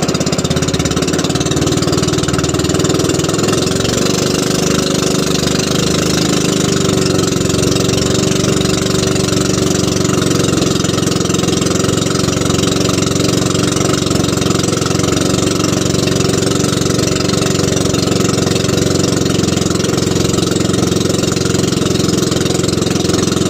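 Small fishing boat's engine running steadily at an even speed while trolling.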